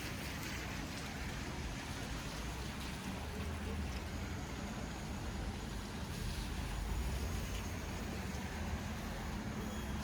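Street ambience: a steady low rumble of distant traffic under a constant, even hiss.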